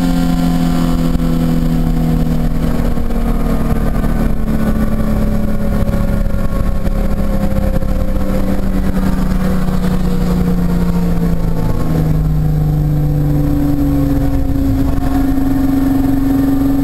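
Race car engine heard from inside the cockpit, running at light throttle with its pitch slowly falling as the car slows. The engine note changes about twelve seconds in, over steady road and wind rumble.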